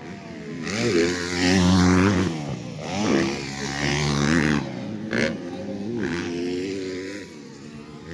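Motocross dirt bikes racing, engines revving hard with the pitch rising and falling as the riders work the throttle and shift gears, two loud passes about one and three seconds in. A short sharp snap about five seconds in.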